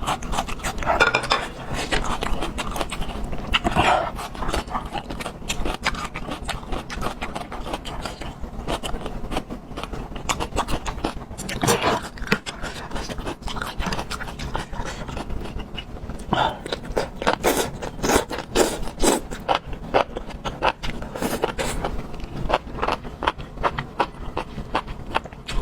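Close-miked eating: irregular chewing and crunching of food with wet mouth clicks and smacks, busiest in the second half.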